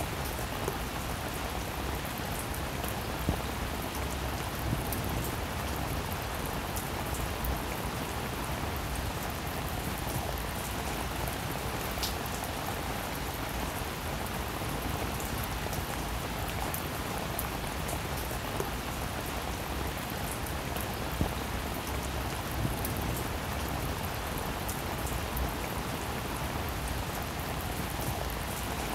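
Steady rain falling on wet pavement and puddles: an even hiss with scattered sharper drop splashes.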